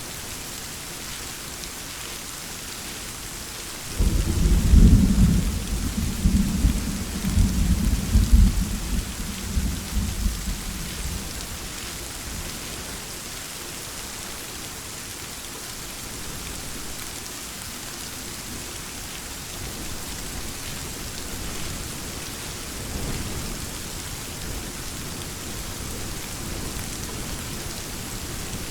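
Steady heavy rain falling, with a thunderclap breaking suddenly about four seconds in and rumbling on for several seconds before dying away; a fainter roll of thunder rises briefly later.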